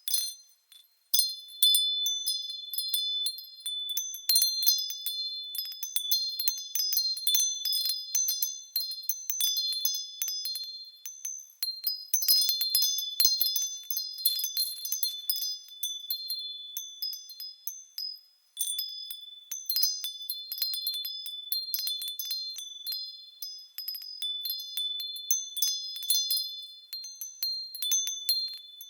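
Japanese fūrin wind chimes ringing irregularly in the wind, quick clusters of strikes on several high, bright tones. The ringing drops away briefly about a second in and again a little past halfway.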